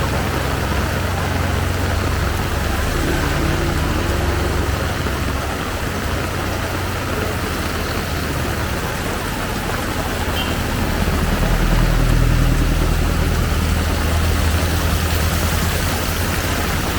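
Heavy rain falling steadily, with the low rumble of motor vehicle engines on the street, louder in the first few seconds and again from about eleven seconds in.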